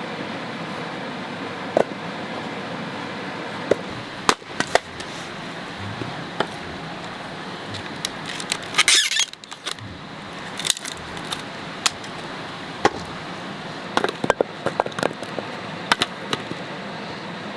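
Wood campfire crackling, with irregular sharp pops and snaps and a dense flurry of them about halfway through, over the steady rush of a waterfall.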